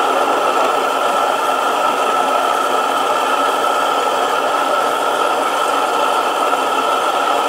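A burner running steadily, heating the hot bulb of a four-stroke hot-bulb engine before starting: a constant rushing noise with a steady tone in it.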